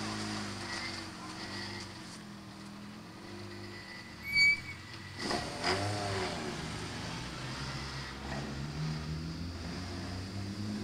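SEAT rally car's engine running at idle, then revved as the car pulls away over snow, its pitch rising and falling. A short, loud high beep sounds about four seconds in.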